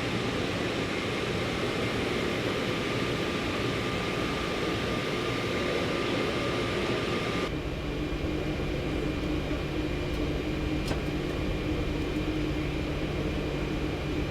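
Steady in-flight cabin noise of a Boeing 737 MAX airliner, a hiss of engines and air flow. About seven and a half seconds in it changes abruptly to a duller, lower hum.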